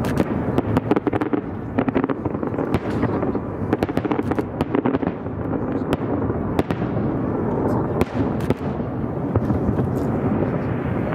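Fireworks display: a steady rumble of explosions with many sharp bangs and crackles going off throughout.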